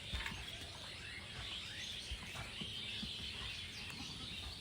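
Faint bird chirps, short and scattered, over a steady high background hiss outdoors, with a few small clicks.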